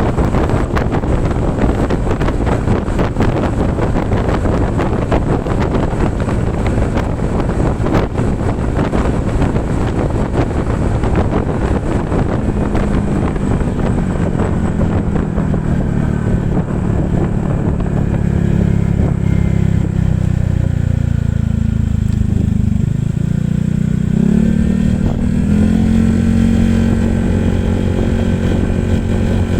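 Honda ADV 150 scooter's single-cylinder engine running under way, at first mostly buried under heavy wind rush on the microphone. About twelve seconds in the wind eases and a steady engine note comes through. The revs dip about two-thirds of the way through, then rise and hold again.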